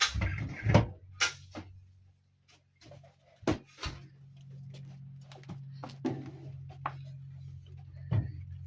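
A series of sharp knocks and clatters, as of objects being handled and set down, loudest in the first second. A steady low hum sets in about three seconds in.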